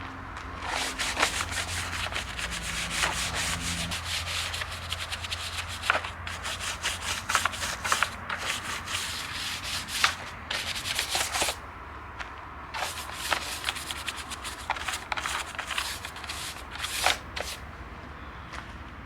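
A car's under tray being scrubbed to clear built-up power steering fluid: irregular rubbing and scraping strokes, with a short lull about twelve seconds in, over a low steady hum.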